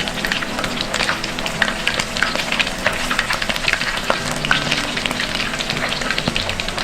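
Karaage, chicken pieces coated in flour and potato starch, deep-frying in hot oil, giving a steady dense crackle and sizzle.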